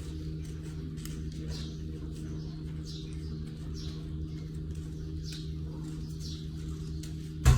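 Short high chirps repeating about once a second, bird-like, over a steady low hum, with a sharp thump near the end.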